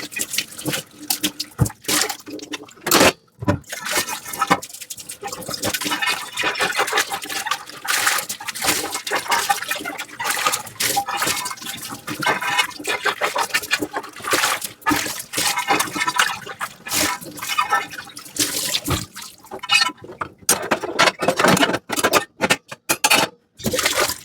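Dishes being washed with a soft sponge and running water: sloshing and scrubbing with many irregular clicks and knocks.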